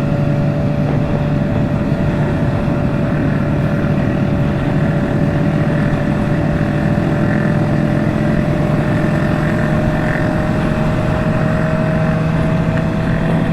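Motorcycle engine cruising steadily at highway speed, its pitch creeping slightly higher, with wind and road noise.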